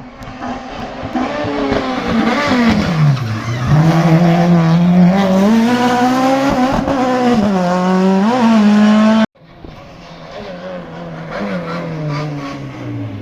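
Hillclimb race car engine at full load, its pitch dropping and rising through gear changes as the car comes close and passes loudly, with some tyre squeal. It cuts off suddenly about nine seconds in, and a second race car is then heard approaching, quieter and rising.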